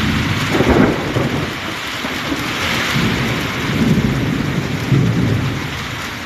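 Heavy rain pouring down in a storm with strong gusting wind, steady hiss with several low rumbling surges.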